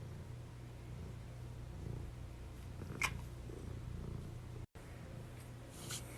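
Domestic cat purring close up, a steady low rumble, with a sharp click about halfway through and a fainter one near the end.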